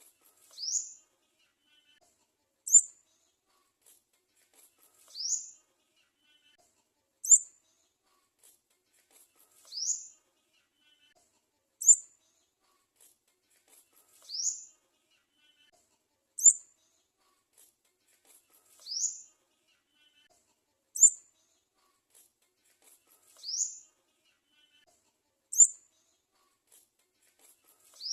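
Garden sunbird nestling begging for food: high, thin calls in a regular cycle. A sharp short chirp is followed about two seconds later by a longer sliding squeak, and the pair repeats about every four and a half seconds.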